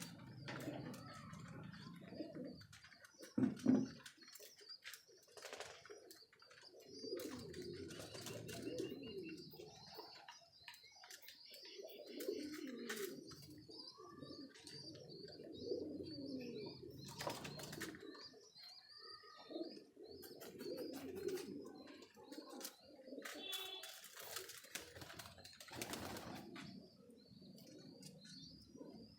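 Domestic high-flyer pigeons cooing again and again, with scattered sharp clicks and a short loud thump about three and a half seconds in.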